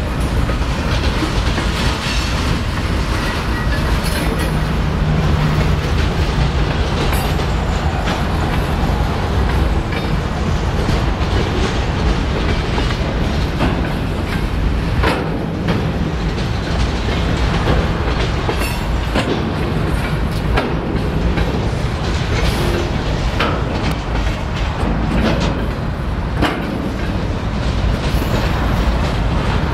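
Freight cars (covered hoppers, then centerbeam flatcars) rolling past: a steady rumble of steel wheels on rail, broken by irregular sharp clicks and clunks.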